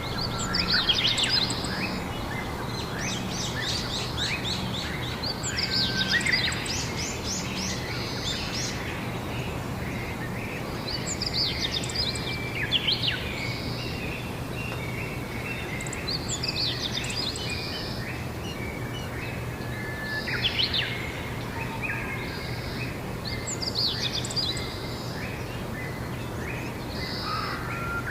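Songbirds singing short, rapid, chirping phrases every few seconds, over a steady low hum and faint background noise.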